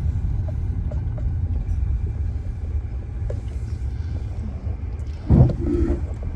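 Low, steady rumble of a car moving slowly, heard from inside the cabin, with a thump about five seconds in.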